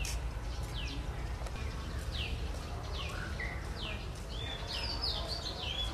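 Birds chirping: short falling notes about once a second, with a busier run of song about five seconds in, over a steady low rumble.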